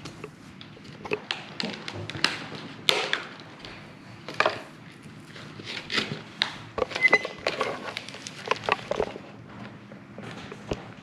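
Lunch box contents being handled and pulled out: irregular taps, knocks and crinkles of plastic and packaging.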